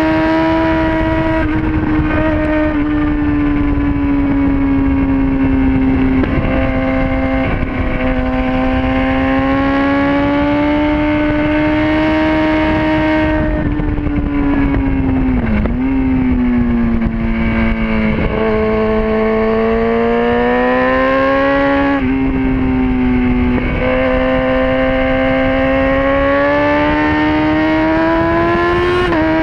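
Sport motorcycle engine running hard at high revs. Its pitch sags and climbs through the corners, with two sharp drops around the middle before it pulls up again. A steady rush of wind on the microphone runs underneath.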